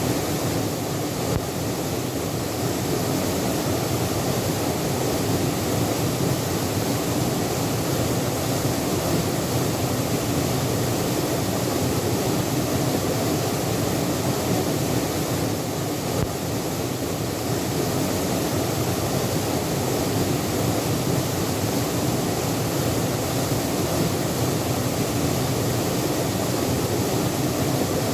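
Waterfall water falling and splashing, a steady, unbroken rushing noise.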